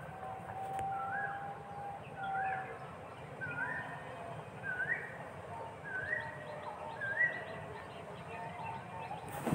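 A bird calling over and over, a short upswept note about once a second, with a faint steady whistle-like tone under the first couple of calls. A sharp thump comes right at the end.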